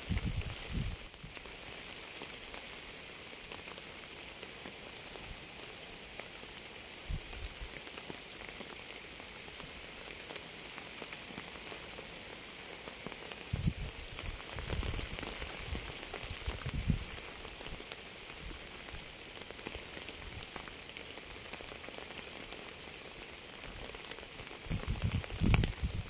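Steady rain falling on a surface: an even hiss with fine patter throughout. A few brief low thuds break through, a cluster of them about halfway through and more building near the end.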